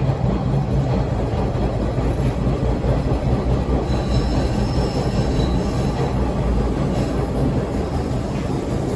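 A Toronto TTC T1 Bombardier subway car running, heard from inside: a steady rumble with continuous rattling, knocking and vibration. A faint high squeal comes briefly about halfway through.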